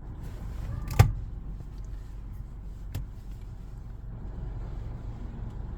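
Steady low rumble heard from inside a car stopped in an automatic car wash bay, as the car idles and the wash waits to start. A sharp knock comes about a second in, and a fainter click about two seconds later.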